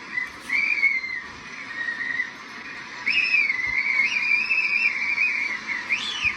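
Tornado wind whistling in a high, wavering tone over a rushing hiss, held for a couple of seconds and then sweeping sharply up and back down near the end.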